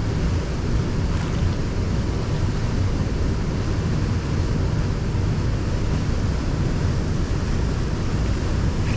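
Steady low rumble of wind buffeting the microphone, with an even hiss above it and no distinct events.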